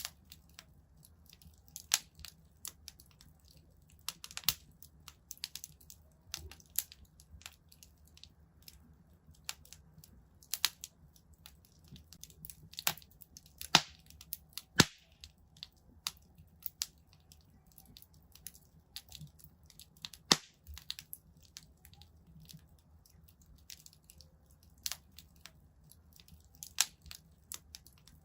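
Wood fire in a fireplace crackling, with irregular sharp pops and snaps, a few much louder than the rest, over a faint low hum.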